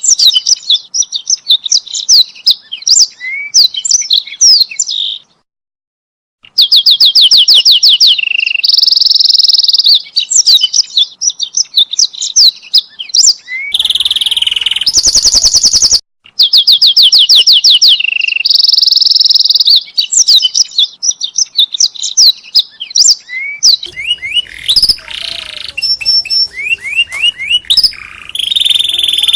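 Canary singing: long, rapid trills and rolls alternating with quick sweeping whistled notes, loud and close. The song breaks off briefly about five seconds in.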